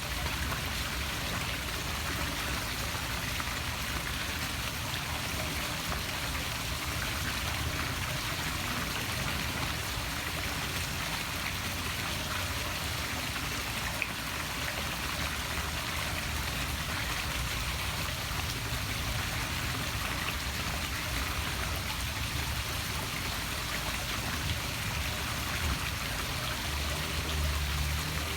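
Small poolside waterfall splashing steadily into a pool, a constant rushing patter of falling water.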